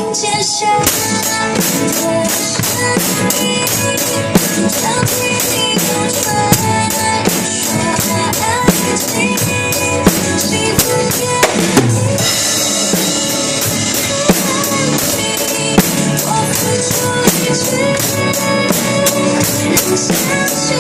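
Drum kit played in a steady beat, with bass drum, snare and cymbal strokes, over a recorded pop-ballad backing track with pitched instruments; the drums come in about a second in.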